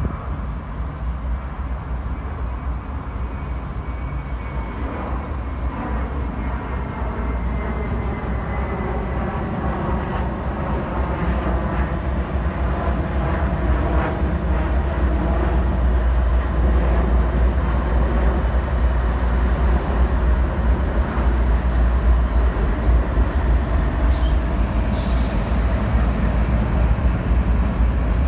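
Train approaching along the track: a steady low rumble of engines and wheels on rail that builds gradually louder, with a couple of short sharp clicks near the end.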